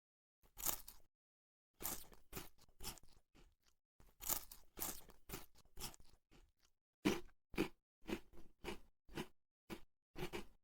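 Faint, short crunching clicks, about twenty at irregular intervals and closer together in the second half, like something small being bitten or chewed.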